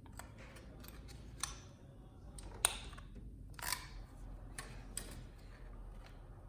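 A handful of small clicks and taps from hands working on a TV's internals, handling the display controller board and its cables, about five separate clicks with the sharpest one near the middle.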